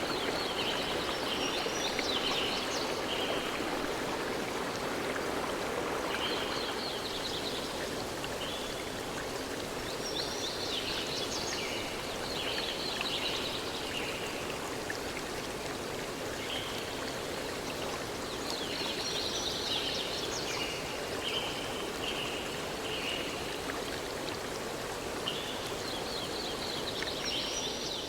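A stream running steadily, with a bird singing the same short high phrase about every 7 to 8 seconds, four times.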